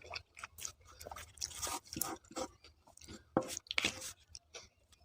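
Close-up chewing of mouthfuls of food, with scattered short clicks and scrapes of a spoon on a plate; the sharpest clicks come a little past the middle.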